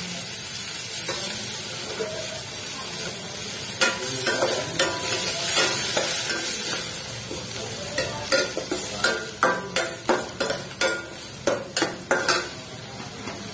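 Onion and tomato pieces sizzling in oil in a stainless-steel kadai while a flat steel spatula stirs them. From about four seconds in, the spatula scrapes and clacks against the pan in repeated strokes, coming faster, about two a second, near the end.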